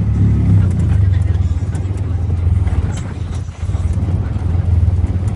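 Motorcycle engine of a Philippine tricycle (motorcycle with sidecar) running steadily with a strong low hum, heard while riding, easing briefly about three and a half seconds in.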